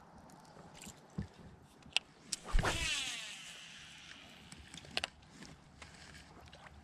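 A cast with a baitcasting reel. A sudden thump comes about two and a half seconds in, then the spool's whir falls in pitch and fades over about a second as it slows. A few sharp clicks come before and after.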